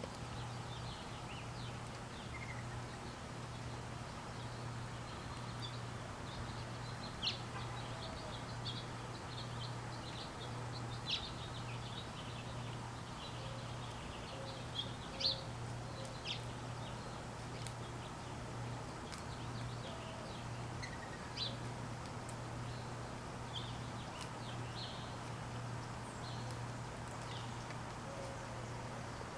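Small birds chirping in short, scattered high calls, with a few faint, low mourning dove coos now and then, over a steady low hum.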